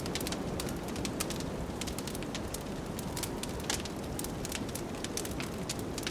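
Wood fire crackling in a fireplace, with frequent irregular sharp pops, over the steady low rush of blizzard wind.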